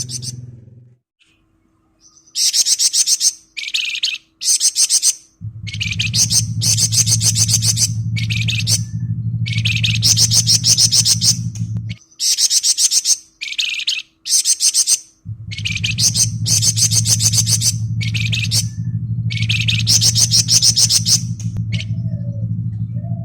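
Flamboyan songbird singing its dense 'ngebren' song: bursts of very fast rattling, buzzing trills, repeated with short pauses between them. A low steady hum sits underneath for much of the time.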